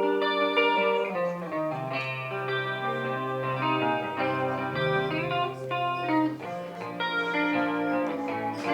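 Band playing an instrumental passage led by guitar with sustained chord notes, a bass line coming in about a second in.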